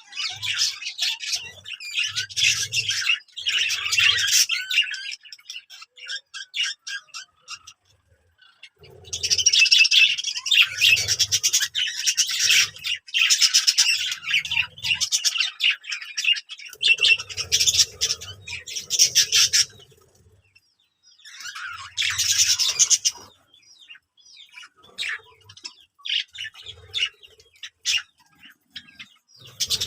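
Many small birds chirping and twittering together in busy bursts of several seconds each, with brief lulls about a quarter and two-thirds of the way through.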